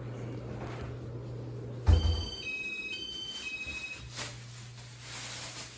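Casablanca Ventura II ceiling fan motor humming steadily. About two seconds in, a thump cuts the hum and the fan's IntelliTouch control beeps a quick run of stepped tones for about two seconds. After another click the motor hum comes back.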